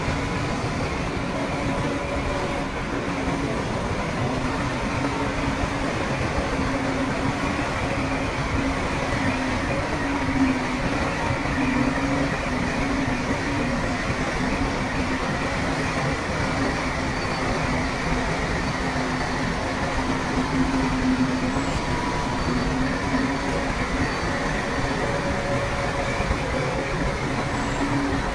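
Shantui crawler bulldozer running steadily as it works, with a continuous heavy mechanical noise and an engine hum that rises and falls slightly in pitch.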